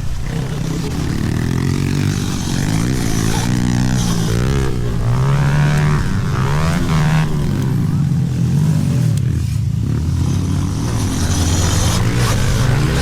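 Small motorcycle engines running and revving, their pitch rising and falling over and over, typical of pit bikes riding a track.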